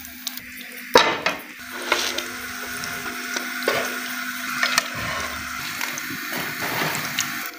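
Egg-coated potato kababs sizzling in hot ghee in a frying pan. A few sharp clicks and scrapes come from a spatula turning them against the pan.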